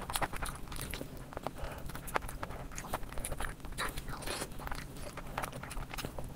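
Close-miked chewing and biting of a sauce-coated fried chicken lollipop, with frequent wet mouth clicks and smacks.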